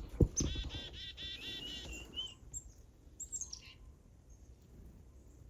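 A small bird calling a quick run of about ten repeated, buzzy notes, followed by a few high chirps, after a single dull thump at the very start.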